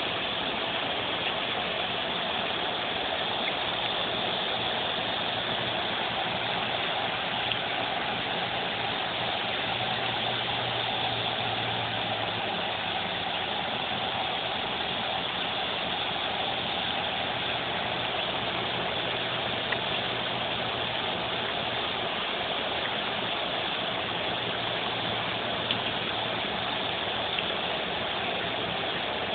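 Steady, unbroken drone of a cicada chorus, with a faint low hum beneath it.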